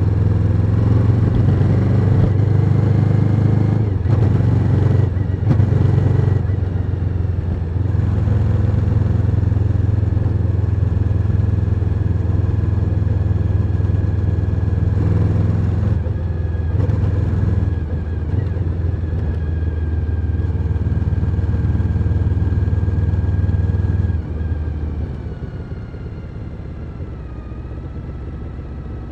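Suzuki SV1000N's 90-degree V-twin engine running under way, with a few brief breaks in the first several seconds, then holding a steady note. About 24 seconds in it drops off sharply and runs quieter.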